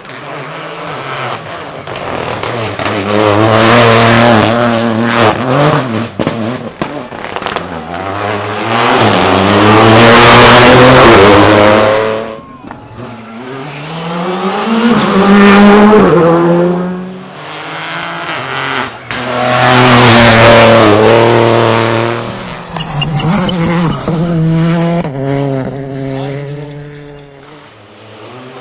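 Rally car engine revving hard, its pitch climbing and breaking off at each gear change, growing loud and fading several times as it drives the stage, with some tyre squeal.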